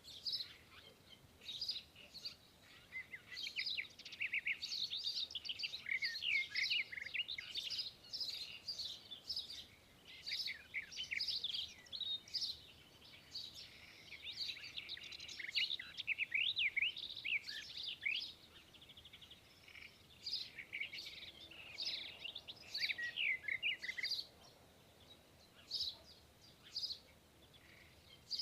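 Birds chirping and singing: a dense run of quick, high chirps and trills that thins out to scattered single calls near the end.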